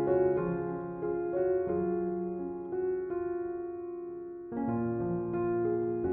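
Slow, gentle piano relaxation music: single notes and soft chords struck about once a second and left to ring, dying away until a fuller new chord comes in about four and a half seconds in.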